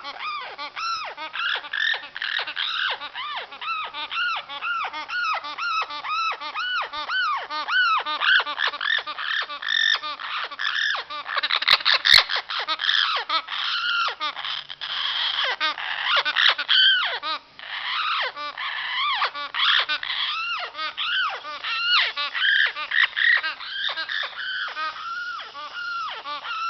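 Female Amazon parrot chattering in a continuous stream of quick rising-and-falling chirps, several a second, a behaviour that comes only in spring. Two sharp clicks sound about halfway through.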